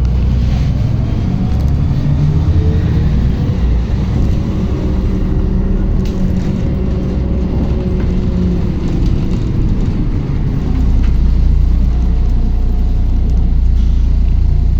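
Interior sound of a MAZ-107.468 city bus under way: a steady low engine rumble, with a whine that rises over the first few seconds, holds, and falls away about ten seconds in as the bus speeds up and then eases off.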